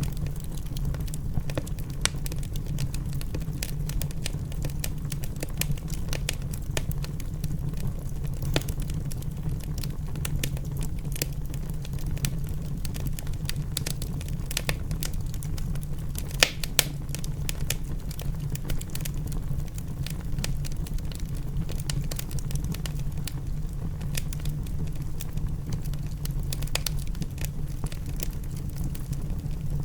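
Wood fire in a fireplace crackling, with irregular sharp pops and two louder ones about halfway through, over a steady low rumble.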